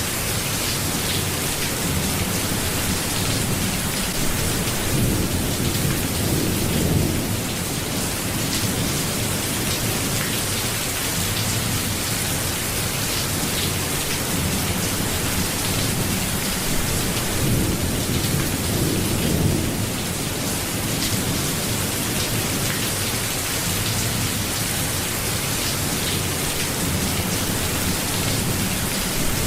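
Steady heavy rain with low rumbles of thunder, one swelling about five to seven seconds in and another around seventeen to nineteen seconds.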